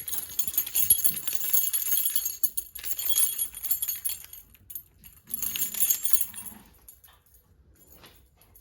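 Small metal pieces jingling, shaken in two spells, the sound the dogs know as the signal that it's time to go out.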